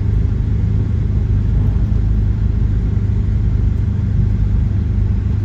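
Four-wheel-drive vehicle driving slowly down a snowy, muddy mountain road: a steady low rumble of engine and tyres.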